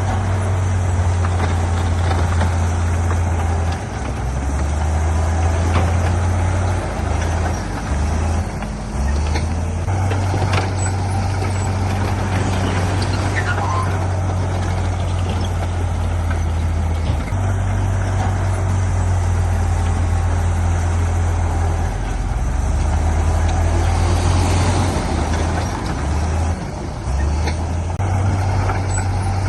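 Heavy earthmoving machinery running steadily with a deep engine drone that shifts in level now and then, with a few short clanks.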